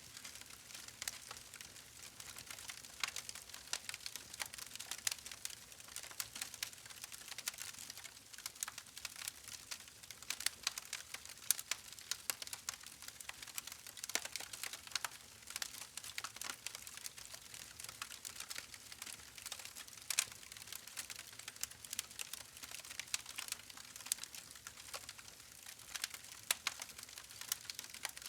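Wood fire crackling: a steady hiss with many small irregular pops and snaps.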